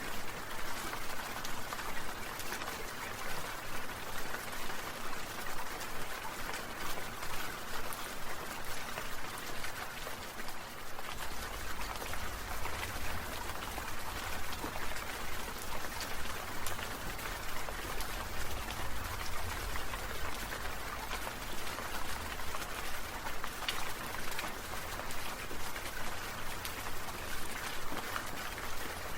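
Falling water drops pattering steadily in a dense hiss of many small ticks, like rain or sprinkler spray. A low rumble joins about eleven seconds in.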